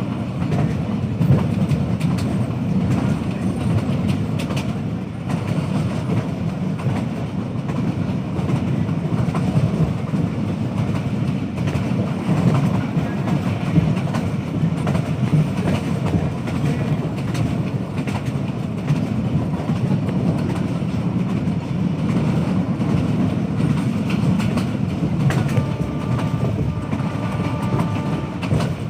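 A passenger train running along the track: a steady low rumble with the clickety-clack of wheels over rail joints.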